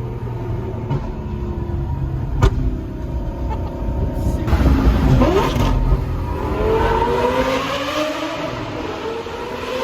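Lamborghini Gallardo Superleggera's V10 with an aftermarket exhaust, heard from inside the car. It runs steadily, gives a single sharp pop about two and a half seconds in, then surges loudly around the middle, its pitch dipping and then climbing as the car accelerates.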